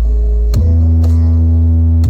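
Large sound system's subwoofers playing a loud, sustained deep bass note that steps up to a slightly higher held note about half a second in, as in bass-heavy sound-check music.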